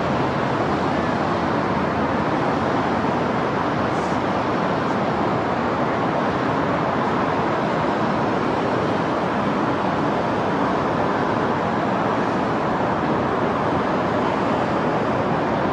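Steady wash of downtown city traffic noise heard from high above the streets, with no siren.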